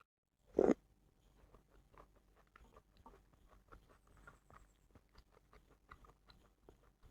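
Close-miked eating sounds: a person chewing, with many small wet clicks and smacks. There is one short, much louder mouth sound about half a second in, right after a brief dropout.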